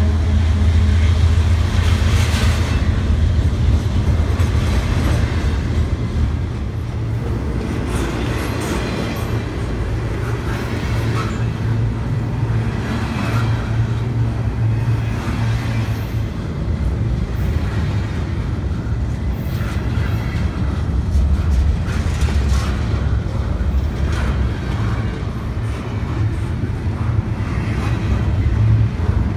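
Double-stack intermodal freight train's container well cars rolling past close by: a steady low rumble of steel wheels on rail, with scattered clanks and clicks.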